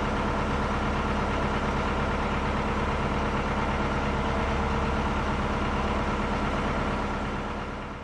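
Narrowboat's diesel engine running steadily with an even low drone, fading out near the end.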